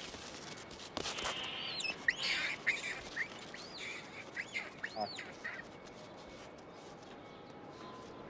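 A run of short, high-pitched animal calls, each rising and falling, over a few seconds, after a single sharp click; then only faint background.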